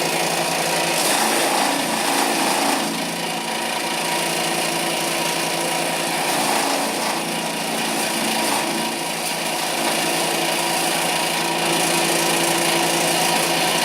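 Homemade wood chipper running steadily, its motor humming under a rough grinding noise of wood being chipped.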